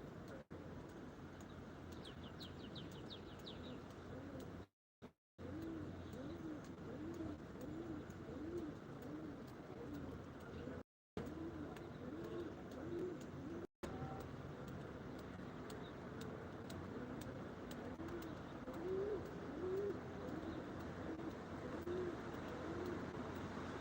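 A pigeon cooing: a long series of short, low, arching coos at about two a second, then a second series after a pause. A small bird trills briefly near the start.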